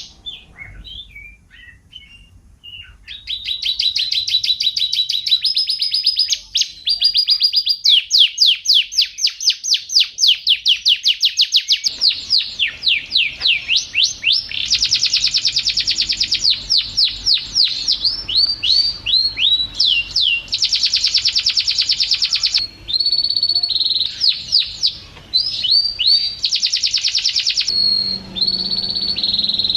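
Domestic canary singing a long song of fast trills and rapid repeated sweeping notes. It is soft and scattered for the first few seconds, then loud and nearly unbroken.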